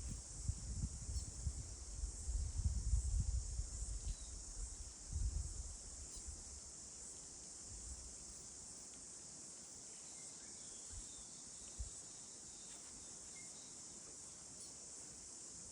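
Steady high-pitched drone of insects. Low rumbling runs through the first six seconds, and a few faint short bird chirps come through.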